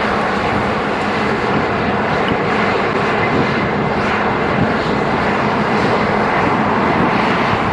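A loud, steady rushing roar that rises a little over the first second and then holds even.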